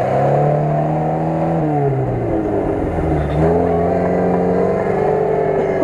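Lada Niva engine revving hard as the 4x4 tries to claw through deep mud with its wheels spinning; the revs drop about two seconds in, then climb again a second later and hold.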